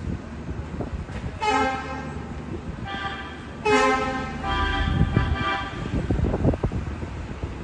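Car horns honking several times in street traffic, with a steady low traffic rumble underneath.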